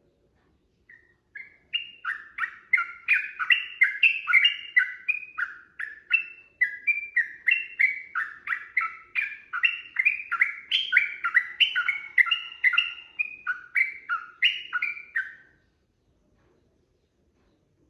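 Yellow-vented bulbul (trucukan) singing a long unbroken run of short, quick notes, about three a second, starting about a second in and stopping shortly before the end.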